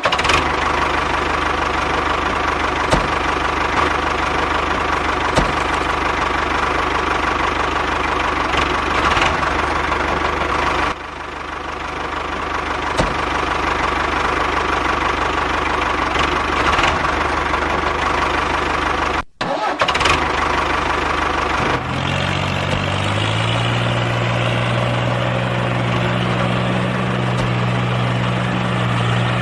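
Tractor engine running steadily, with a high whine over the engine note. The sound breaks off about eleven seconds in and again near twenty seconds, and from about twenty-two seconds a lower, steady engine note takes over, rising briefly as it begins.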